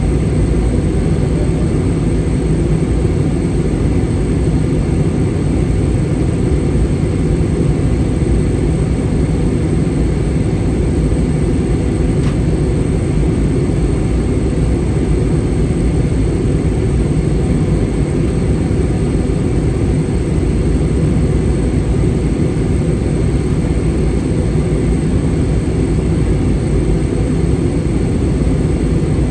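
Steady cabin noise inside an Airbus A320: an even low rumble of engines and rushing air, with a faint click about twelve seconds in.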